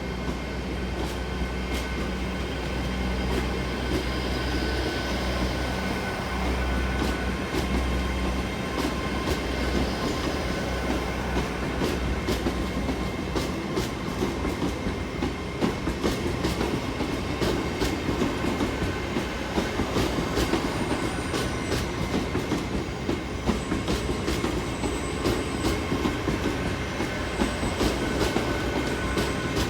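GWR Intercity Express Train bi-mode unit pulling out of the station on its underfloor diesel engines. A low engine hum is strongest in the first several seconds, and the wheels make a run of clicks over the rail joints that carries on throughout.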